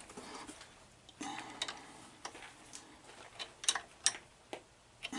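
Light, irregular clicks and taps, about nine of them, from hand tools and small metal parts being handled while a new wire tip is fastened into a soldering gun.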